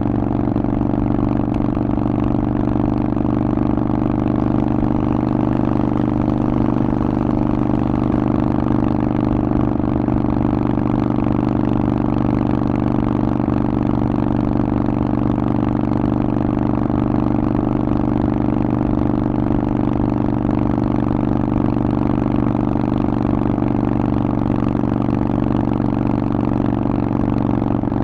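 Harley-Davidson Forty-Eight's 1200 cc air-cooled V-twin running through a Vance & Hines exhaust, holding a steady, unchanging pitch.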